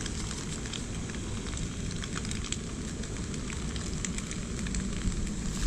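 Egg and scallions sizzling in a small wok over a portable gas canister stove, with scattered crackles over a steady low rush from the burner.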